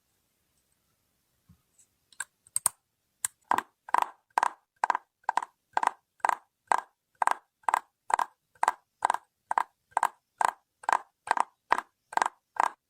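Close-miked ASMR trigger sounds: after a short pause and a few scattered clicks, a steady run of short, crisp strokes, about two a second.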